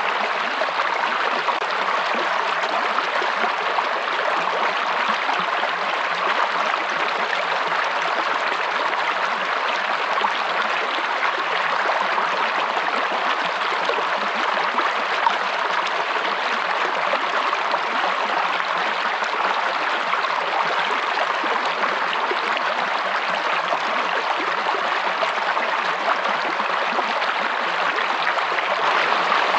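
Flowing water of a forest stream, a steady rush with no breaks.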